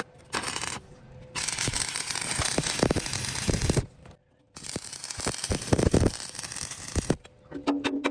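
Two stretches of harsh, crackling metalworking noise with sharp clicks, each about two and a half seconds long, starting and stopping abruptly with a short silence between them.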